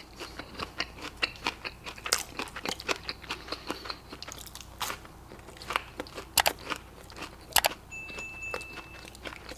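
Close-miked eating: irregular crisp bites and wet crunching chews of crunchy food.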